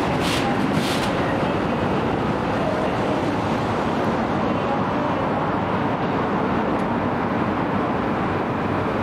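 Keikyu electric train running along a station platform, wheels clicking over rail joints a few times in the first second, then a steady running noise.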